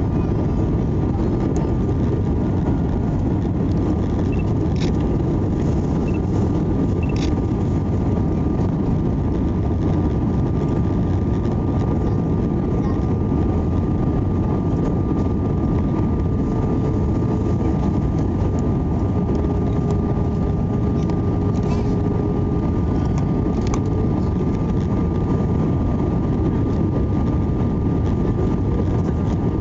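Steady cabin noise of an Airbus A320 in flight: the rush of engines and airflow, with a thin steady whine above it.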